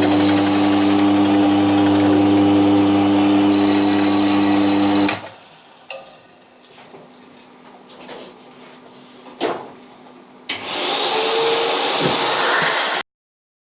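Milling machine running with a steady motor hum, working the cast iron bandsaw table; it stops abruptly about five seconds in. A quieter stretch of a few clicks and knocks follows, and a loud rushing machine noise starts near the end, then cuts off.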